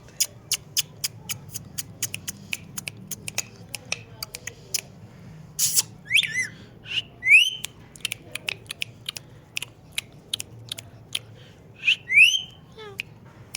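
Pet parrot making a quick series of sharp clicks, then several short whistles that sweep upward in pitch, about twice in the middle and once near the end.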